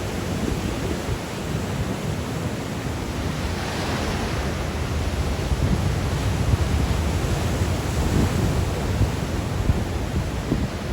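Sea waves breaking and washing ashore in a strong wind, with gusts buffeting the microphone as a low rumble. A wave's hissing wash swells about four seconds in.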